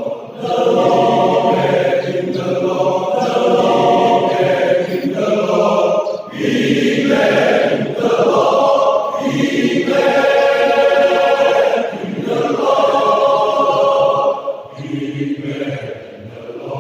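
Men's choir singing a hymn in harmony, in long sustained phrases with brief breaks between them, softer near the end.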